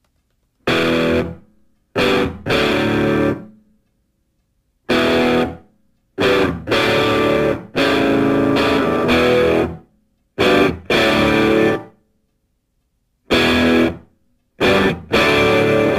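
Distorted electric guitar playing loud chords in short stabs broken by abrupt silences, a rock riff.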